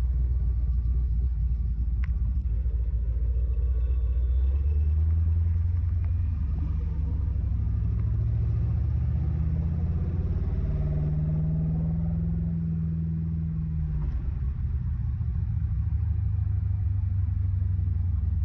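6.0-litre LS V8 rumbling as the car drives, heard from inside the cabin. Its note steps up about four seconds in, holds a steady higher tone, and falls back about fourteen seconds in.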